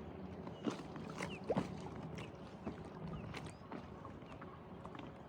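Kayak paddling on a lake: water dripping off the paddle and light splashes against the hull, heard as scattered small plinks and clicks over a faint steady background.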